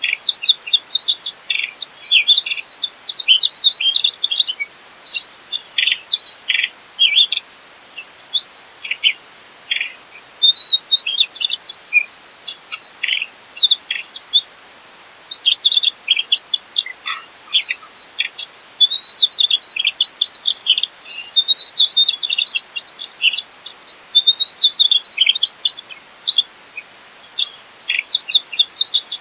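Mugimaki flycatcher singing a fast, continuous stream of high chirps and short twittering phrases, with only brief pauses.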